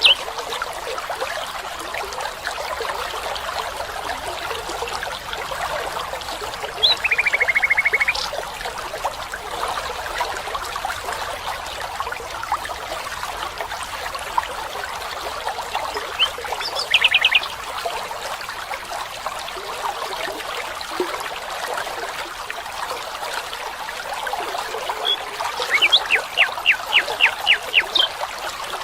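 Steady trickle of running water from a small stream, with short trilled animal calls about a quarter of the way in and again past halfway, and a quick run of about nine chirps near the end.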